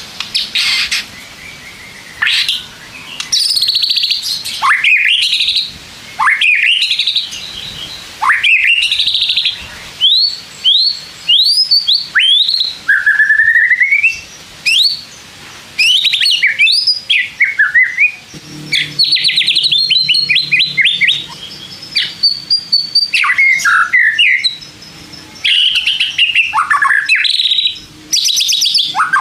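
White-rumped shama in full song: a long run of loud, varied phrases of whistled notes that sweep up and down, rapid trills and chattering notes, with short pauses between phrases.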